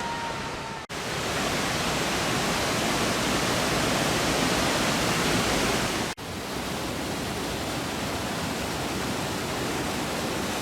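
Steady rush of fast-flowing river water, with two very short dropouts, about a second in and about six seconds in.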